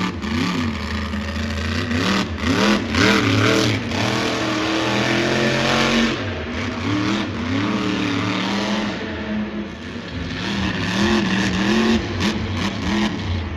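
Monster truck's supercharged, alcohol-burning engine revving hard over and over, its pitch rising and falling as the throttle is worked, with short sharp cracks from the engine through the loudest stretches.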